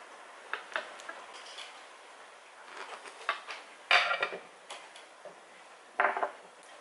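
Scattered clicks and clatters of small hard objects, with two louder clatters about four and six seconds in.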